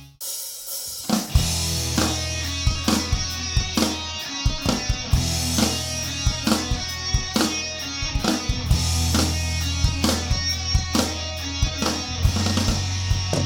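Live rock band starting a song after a brief pause: drum kit, bass guitar and electric guitar come in together about a second and a half in and play a steady instrumental beat.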